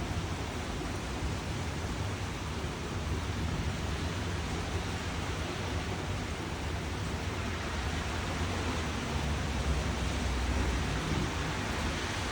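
Steady rain hissing, with a low rumble underneath that grows a little louder near the end.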